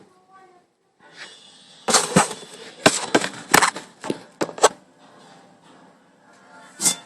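Sharp knocks and clicks, about a dozen, most of them bunched in the middle, over a faint steady hiss.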